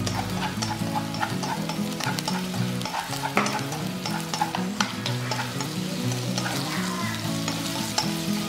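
Sliced green onion and garlic sizzling in oil in a nonstick wok, stirred with wooden chopsticks that click and scrape against the pan again and again.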